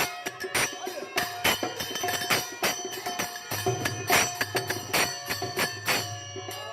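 Instrumental passage of a purbi folk song: rapid jingling percussion strikes in a steady rhythm over held melodic notes.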